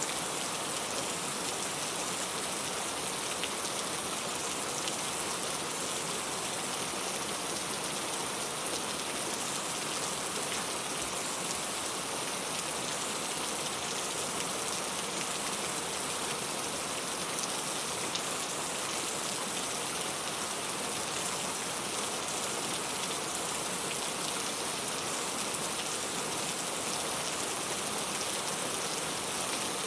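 Steady rain falling, with fine pattering of drops on a surface.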